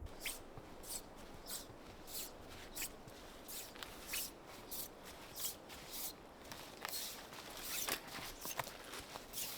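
Footsteps crunching in snow at a steady walking pace, about three steps every two seconds.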